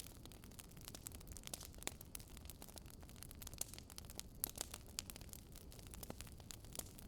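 Faint wood fire crackling: irregular sharp snaps and pops over a low steady rumble.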